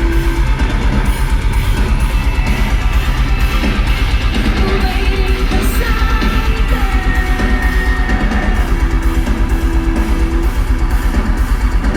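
Metal band playing live through a festival PA: heavy distorted guitars over a rapid, even drum beat, with held notes on top. The music cuts off right at the end.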